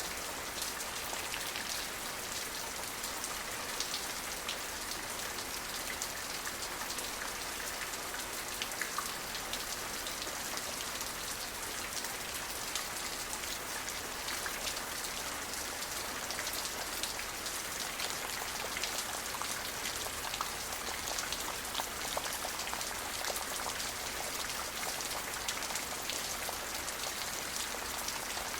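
Steady rain falling on a surface: a constant hiss with many fine, close drop ticks, no thunder.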